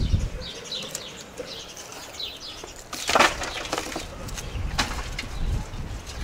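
Small birds chirping in short repeated notes, with a sharp clattering knock about three seconds in and a few fainter clicks later.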